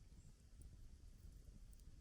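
Campfire burning faintly: a couple of small crackles from the wood over a low rumble.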